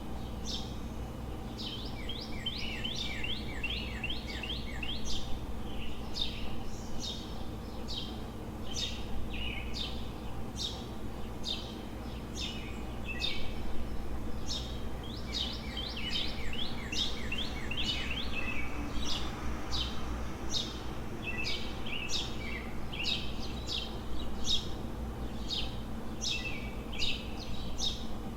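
Several small songbirds chirping in the dawn chorus: quick, high chirps repeated many times a second, some short falling notes, over a steady low city hum.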